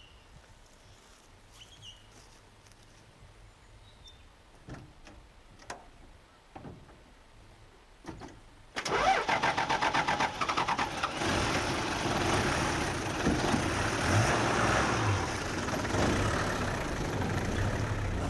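A four-wheel-drive vehicle's engine starts about halfway through, with a few seconds of fast even firing as it catches, then runs steadily. Before that, only faint background and a few light knocks.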